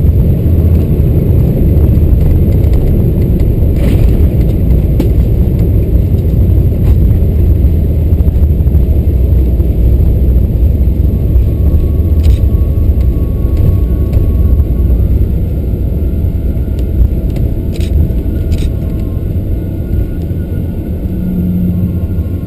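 Steady low rumble of a Boeing 777-300ER heard from inside the passenger cabin: its GE90 engines and the airframe on or near the runway, easing slightly near the end, with a few faint clicks.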